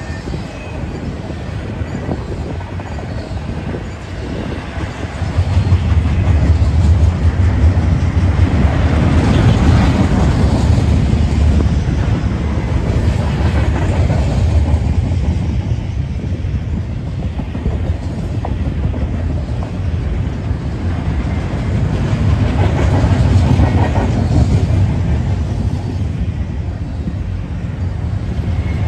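Double-stack intermodal freight train rolling along the rails, a steady rumble of wheels and cars that grows louder about five seconds in.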